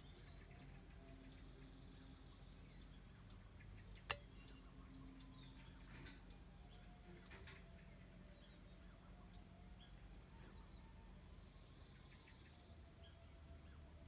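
Faint wild birdsong: scattered short chirps and calls from small birds, with a couple of brief high trills, over a low outdoor hum. A single sharp click cuts through about four seconds in.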